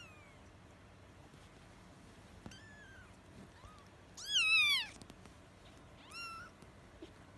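Week-old kittens mewing in thin, high cries. There are a few faint mews, then one loud, drawn-out mew about four seconds in that falls in pitch, and a shorter rising one about two seconds later.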